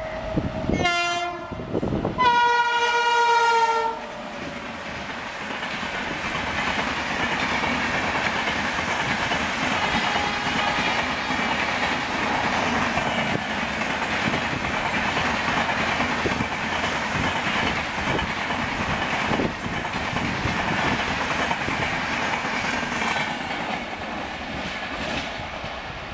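An Indian Railways WAP-7 electric locomotive sounds its horn: a short blast, then a longer one starting about two seconds in whose pitch sags slightly at the end. After that the express's coaches roll past at speed, a steady rush with wheels clattering over the rail joints, easing off slightly near the end.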